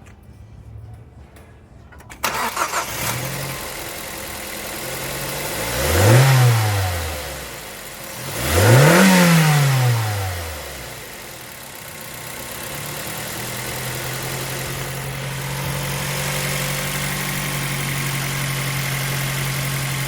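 2008 Mazda 3's four-cylinder engine starting about two seconds in and idling. It is revved twice, the pitch climbing and falling back each time, then settles into a steady idle.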